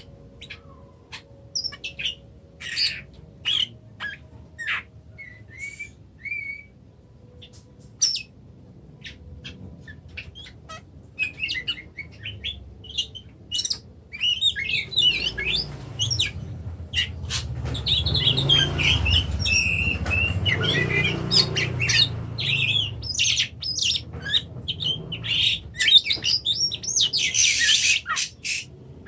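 Oriental magpie-robin (kacer) calling. Scattered short chirps and whistles come first, thickening into a dense run of song from about halfway, with a low rumble underneath in the middle and a harsh, noisy call near the end.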